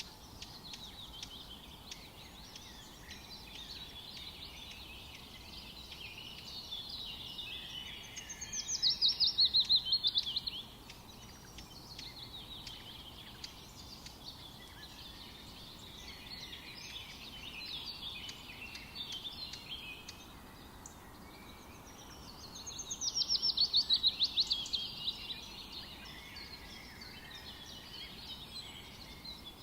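Forest birds singing, with chirps and twittering throughout. A louder, rapid trill that falls in pitch rings out for about two seconds, about a third of the way in and again about three quarters of the way in.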